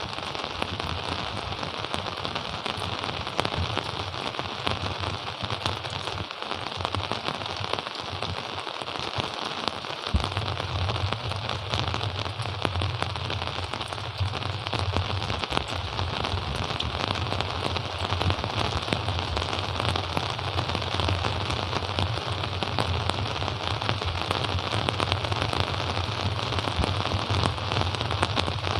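Steady rain falling, a dense crackle of drops striking close surfaces. About ten seconds in, a low steady rumble joins it and carries on.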